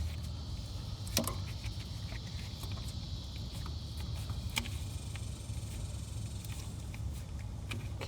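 A few light metallic clicks of hand tools working on bolts, the clearest about a second in and another about four and a half seconds in, over a steady low hum.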